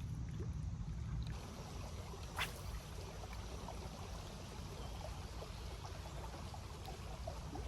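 Shallow creek water trickling, with a low wind rumble on the microphone that stops about a second in and a single sharp tick a little past two seconds.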